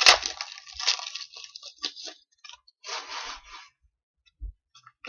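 Foil trading-card pack wrappers crinkling and tearing as packs are ripped open, with cards being handled. Loudest in the first second, with another stretch of crinkling a few seconds in, then only a few light clicks.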